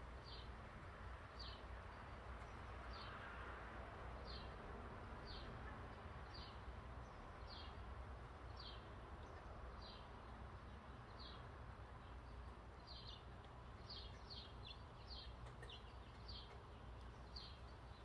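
A bird calling faintly, repeating a short high note about once a second, with a few notes coming in quick pairs in the later part, over a steady low background hum.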